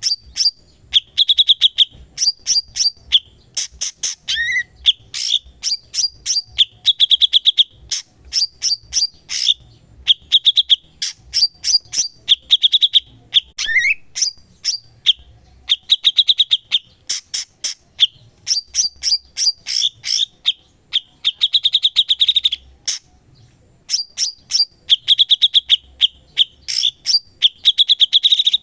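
Cucak cungkok singing vigorously: short, fast rattling trills alternate with sharp, high chip notes, repeated almost without pause, with a quick rising whistle twice.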